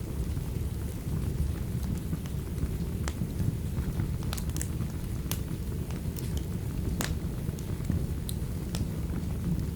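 Heavy rain with a continuous low thunder-like rumble. About a dozen sharp crackles from a wood fire are scattered through it.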